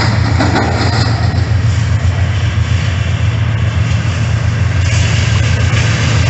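SSR EL class diesel-electric locomotives approaching with a steady low engine drone. The rumble of a departing electric suburban train fades over the first couple of seconds, and the locomotive noise grows louder near the end.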